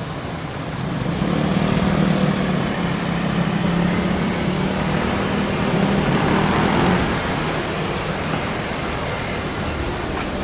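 A motor vehicle passing in city street traffic. A low, steady engine hum swells about a second in and fades after about seven seconds, over constant traffic noise.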